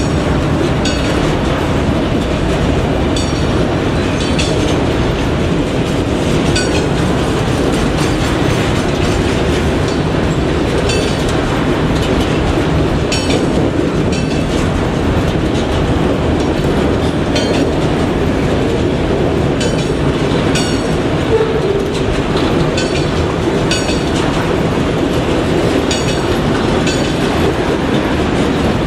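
Railroad cars rolling on the track with a steady rumble, their wheels clicking over rail joints in repeated pairs every second or two.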